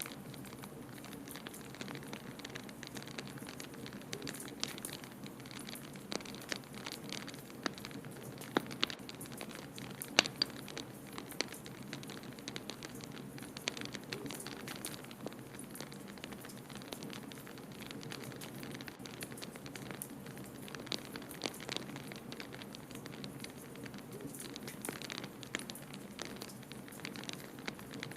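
Wood fire crackling in a fireplace, with irregular sharp pops, the loudest about ten seconds in, over a steady low rush of blizzard wind.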